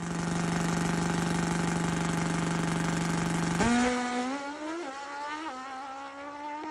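Drag-racing motorcycle engine held at steady high revs, then launching about three and a half seconds in and climbing in pitch with two gear shifts, growing fainter as it pulls away.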